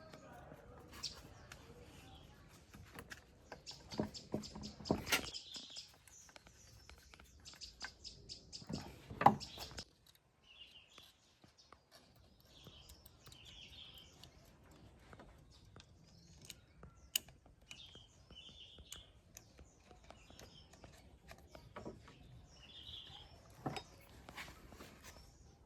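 Small birds chirping off and on, with scattered knocks and clicks; the loudest knock comes about nine seconds in.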